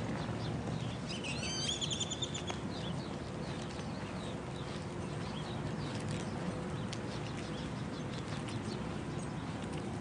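Birds chirping in many short calls, with one louder warbling call about a second and a half in, over a steady low background hum.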